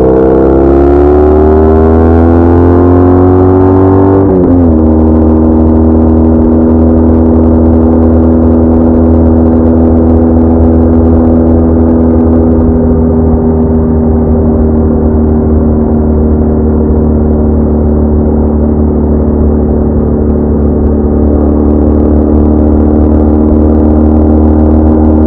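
BMW R1200R's flat-twin engine accelerating, its pitch climbing for about four seconds, then dropping sharply at an upshift and settling into a steady cruise.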